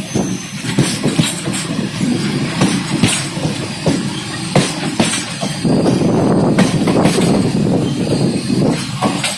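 Indian Railways express train running through a station without stopping, heard from aboard: a steady rumble of the coaches with the wheels clicking over rail joints and points. The rumble gets louder about halfway through.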